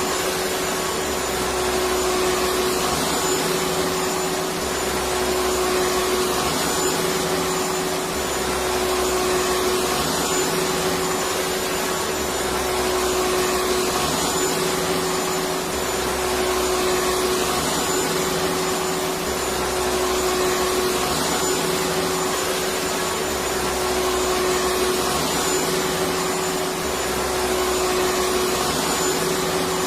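Electric vacuum cleaner running continuously: an even rush of air with a steady hum under it.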